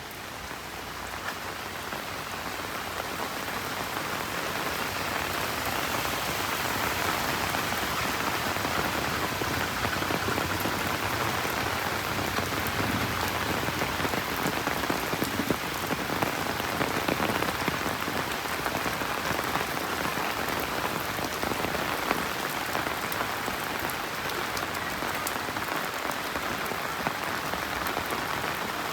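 Steady rain falling and pattering on surfaces, with scattered individual drop ticks; it swells over the first few seconds and then holds even.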